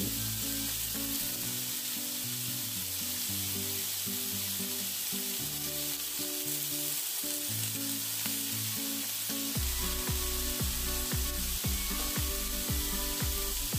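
Chicken satay skewers sizzling steadily in a hot grill pan, oiled side down. Background music plays under it, with a beat coming in about two-thirds of the way through.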